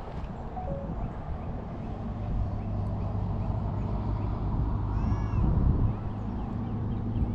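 Outdoor pond-side ambience: wind rumble on the microphone with a steady low hum, and a brief run of high, arching calls about five seconds in.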